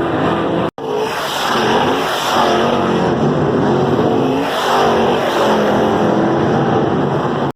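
Several dirt-track race car engines running hard, their pitch rising and falling as the cars accelerate and back off through the turns. The sound cuts out for an instant about a second in.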